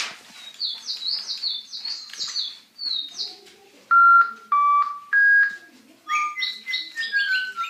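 Toy birds chirping and whistling. First comes a quick series of high chirps, then three loud, steady whistle notes at different pitches, then a run of falling chirps.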